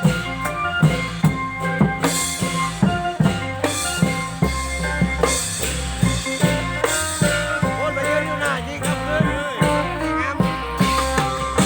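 A klong yao long-drum band playing: a steady drum beat under sustained pitched tones, with a melody line that bends up and down in pitch partway through.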